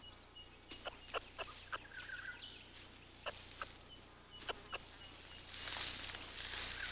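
Outdoor bush ambience: a scattering of short sharp clicks and clucks and faint high bird chirps. A steady high hiss comes up about two-thirds of the way through.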